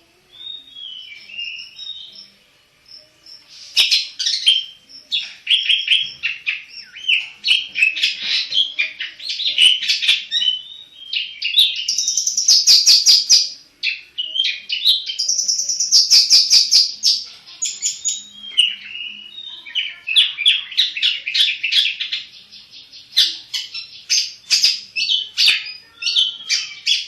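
Black-headed long-tailed shrike (cendet) in full, continuous song: a varied, high-pitched medley of fast chattering trills, sharp clicking notes and swooping whistles, with a few brief pauses.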